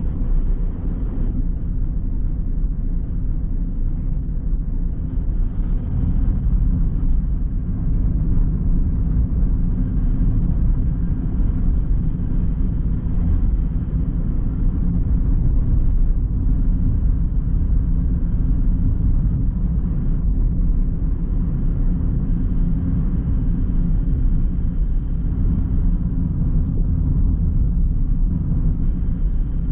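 Car being driven: a steady low rumble of tyres and engine.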